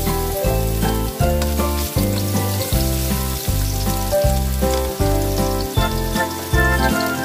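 Chopped garlic sizzling in hot oil in a frying pan while it is stirred with a spatula, as a steady crackling hiss. Background music with a regular bass beat plays throughout and is the loudest sound.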